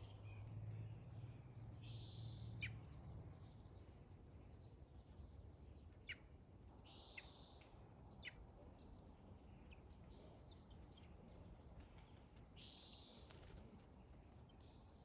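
Faint small-bird calls over a quiet outdoor background: a few short, sharp chirps and three raspy, hissing calls about a second long each.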